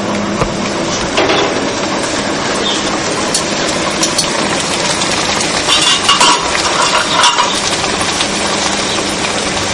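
A pastry frying in hot oil in a non-stick pan, sizzling steadily, with a few clinks and scrapes of a spatula against the pan.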